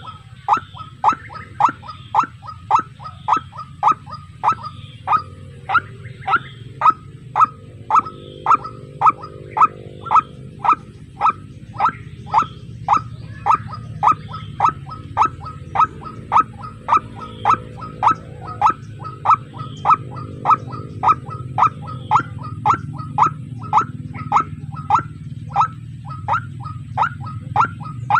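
White-breasted waterhen (ruak-ruak) calling, one short note repeated monotonously about twice a second, over a steady low hum.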